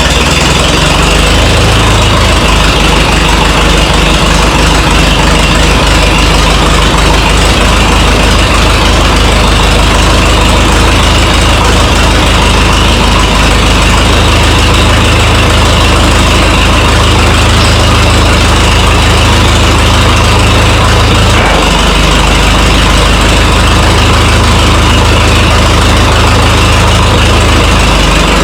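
Minneapolis-Moline tractor engine running loud and steady after sitting unused for five years, not yet running happily. Its low note shifts a little once early and again about three quarters of the way through.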